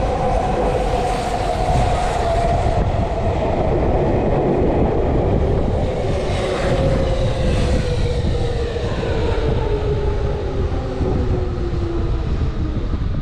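Electric commuter train braking into the station: wheels rumbling and clattering on the rails while the traction motors' whine falls slowly in pitch as it slows.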